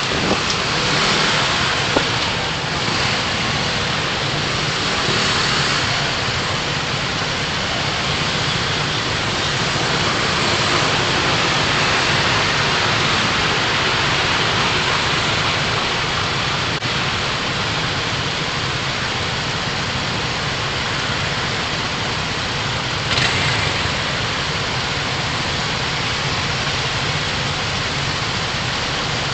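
Steady road and engine noise inside a car being driven, as picked up by a dashcam, with gentle swells and one brief rise near the end.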